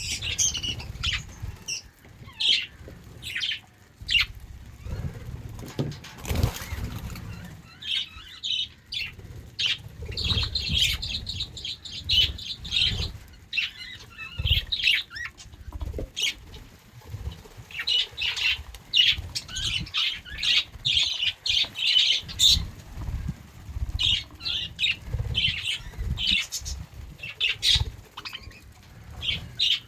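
A flock of budgerigars chirping and chattering in rapid bursts of short high notes, coming in dense stretches with brief lulls between, with wings fluttering and low thumps underneath.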